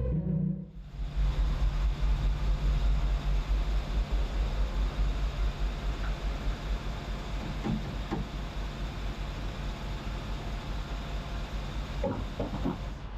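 Heavy truck driving: a steady low engine rumble with road noise, plus a few faint clicks in the middle and near the end.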